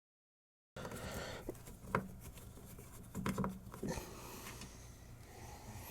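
Faint scraping and a few sharp clicks of a Phillips screwdriver turning small screws out of a soundbar's casing, after a short stretch of dead silence at the start.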